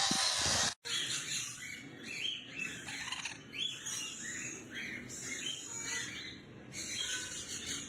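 Pet parrots chirping: a run of short, rising chirps, about two a second, over a steady hiss.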